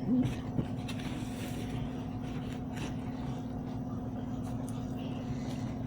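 A steady low machine hum, with a brief short vocal sound at the very start and a few faint clicks.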